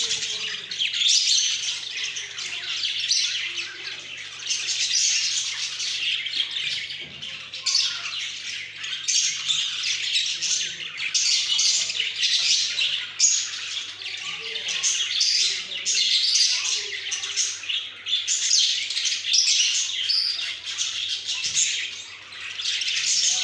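Several pet budgerigars chattering together, a continuous mix of many short overlapping chirps and warbles that swells and eases.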